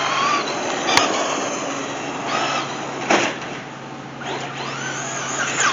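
Electric RC car motor whining, its pitch rising and falling as the car speeds up and slows, over tyre noise, with two sharp knocks about one and three seconds in.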